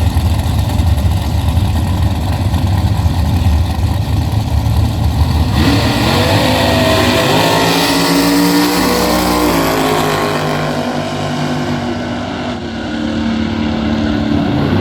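Loud drag-racing engines: a heavy low rumble, then from about five seconds in a louder roar as the engines rev, their pitch gliding up and down.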